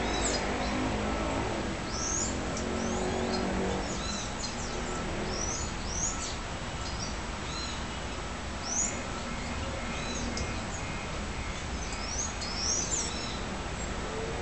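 Birds chirping, with many short high chirps and quick sweeping calls scattered through, over a steady low background rumble. A low drone fades out over the first few seconds.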